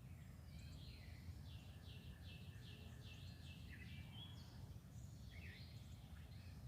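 Faint songbirds singing: one bird repeats a clear note about three times a second for a couple of seconds, then scattered chirps and a short trill follow. A low steady rumble runs underneath.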